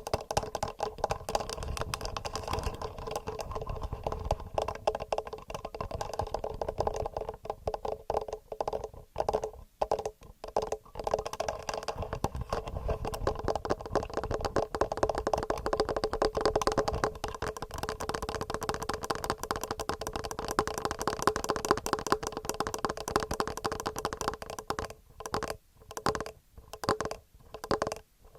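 Fingernails tapping rapidly on a TASCAM recorder's microphones: a dense, fast run of close-miked clicks, with short breaks about nine seconds in and a few brief gaps near the end.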